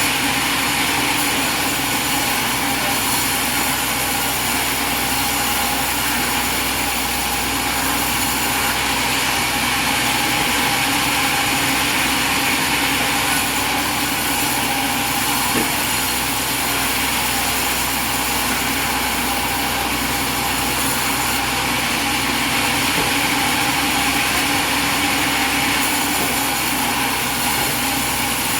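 Light sawmill's small engine running steadily at an even pitch and level.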